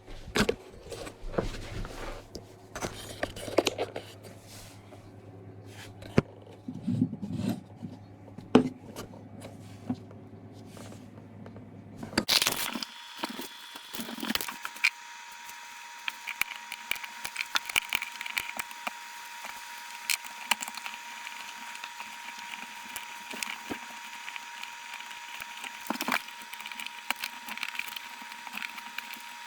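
Irregular clicks, knocks and scrapes of parts and tools being handled while a dishwasher is taken apart. About twelve seconds in, the background changes abruptly: a low hum stops, and a faint steady tone with a hiss takes its place.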